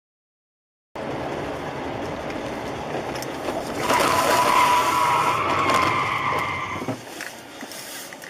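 Car road and engine noise starts abruptly about a second in. About four seconds in, a loud high steady squeal joins it for about three seconds and then cuts off suddenly.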